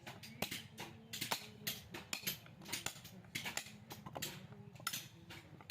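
Irregular sharp metallic taps and knocks, a few a second, from tools working on a scrap refrigerator compressor as it is dismantled, over a low steady hum.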